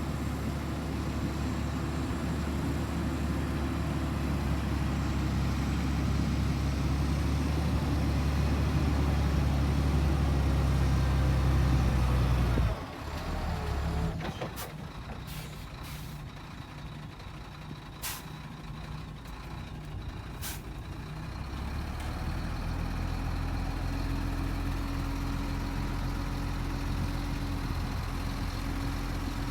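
Heavy diesel engine of earthmoving equipment working hard and rising slightly. About thirteen seconds in it drops off sharply. A quieter stretch follows with several short, sharp hissing clicks, and then a steady engine comes back in.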